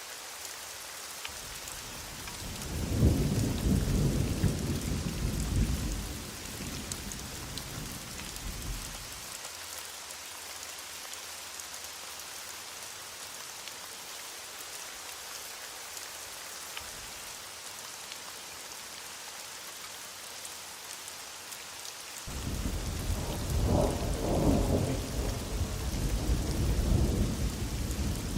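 Heavy rain falling steadily, with two long rolls of thunder: one swelling about two seconds in and dying away by about nine seconds, the other breaking in abruptly after about twenty-two seconds and still rolling at the end.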